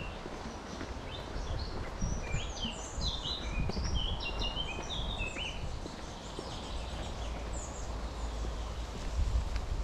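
A songbird singing a quick run of short, sliding high notes, strongest in the first half, over a steady low rumble.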